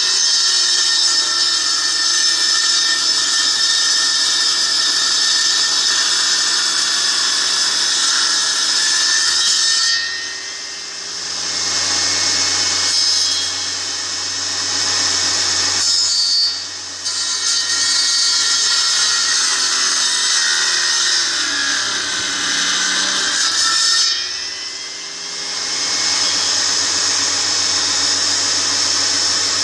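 Electric power saw cutting through wood, running steadily under load. The cutting noise dips briefly three times: about a third of the way in, past halfway, and again near the end.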